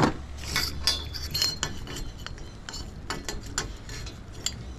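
Small metal antenna parts clicking and clinking as they are handled after a stuck fitting is unscrewed: a string of short, sharp clinks, a few with a brief ring in the first second and a half.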